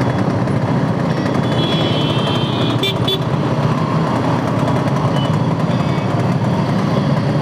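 Jammed city road traffic: vehicle engines running with a steady rumble, and a vehicle horn sounding for about a second around two seconds in, followed by a couple of short sharp toots.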